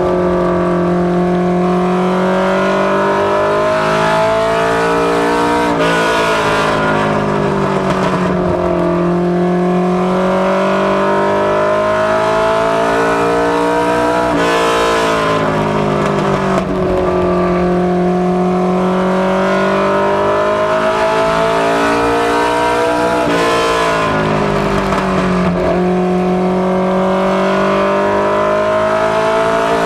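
Ministock Ford Mustang LX notchback race car lapping an oval track at speed. Its engine pitch climbs and falls in a repeating cycle about every eight to nine seconds, lap after lap: it accelerates down the straights and lifts for the turns.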